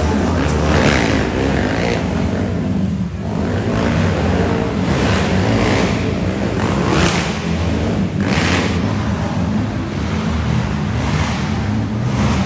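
Monster truck engines running loud, with repeated revving swells every second or two.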